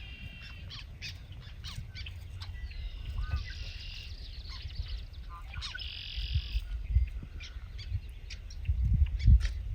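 Several wild songbirds singing and calling, with two buzzy trills in the middle, over a low rumble that swells near the end.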